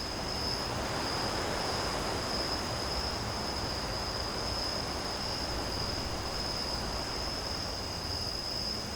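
Crickets trilling steadily in one unbroken high note, over a constant even rushing noise.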